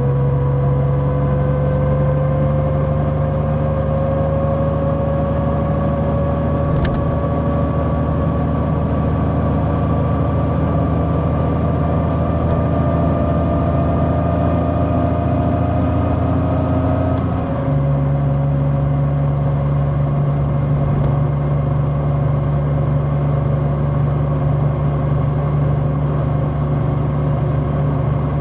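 Large motorcycle engine running steadily while riding. Its note climbs slowly, then drops back about two-thirds of the way through and holds steady.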